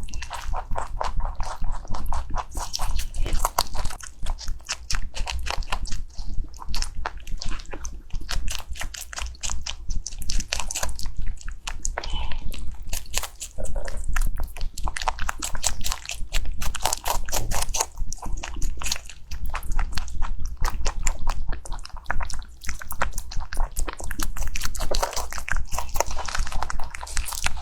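A small pet animal chewing crisp food close to the microphone: quick, continuous crunching bites in runs with short pauses.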